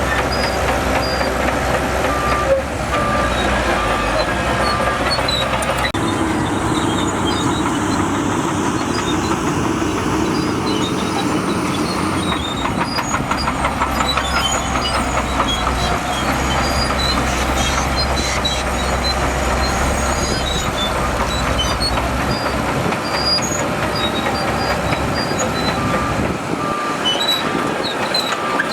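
Crawler bulldozer's diesel engine running under load, with a steady clatter of steel tracks. A reversing alarm beeps in a short run about two seconds in and again near the end.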